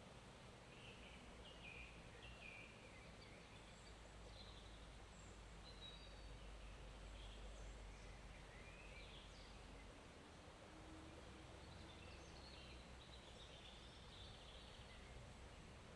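Faint forest ambience: small birds chirping here and there over a soft, steady background hiss and low rumble.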